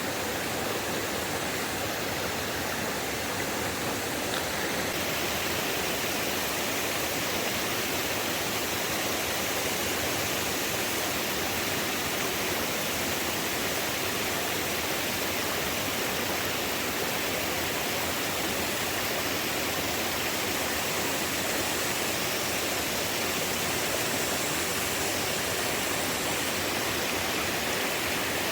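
Steady rushing water, a constant even hiss that grows a little stronger from about five seconds in.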